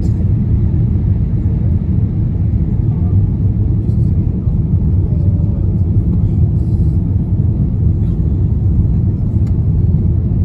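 Steady, loud, low rumble of a Boeing 787-8 Dreamliner's engines and rushing air, heard from inside the passenger cabin during the climb just after takeoff.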